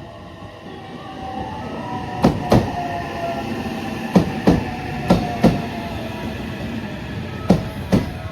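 Train running along the platform, its rumble building from about a second in. Its wheels strike the rail joints in quick pairs of clacks, four pairs in all.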